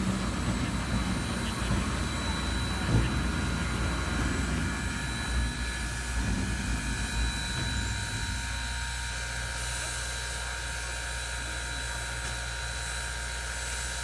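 Inside the cab of Southern Railway 630, an Alco 2-8-0 steam locomotive: a low rumble with a few knocks, which settles about eight seconds in to a steady hum under thin, steady high tones.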